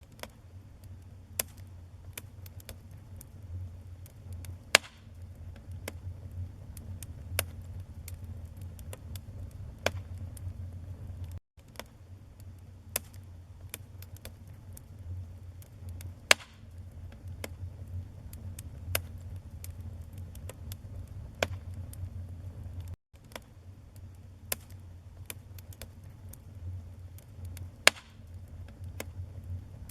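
Wood fire in a fireplace crackling, with sharp pops every second or so over a low, steady rumble of flame. The sound cuts out briefly twice, about a third and two-thirds of the way through.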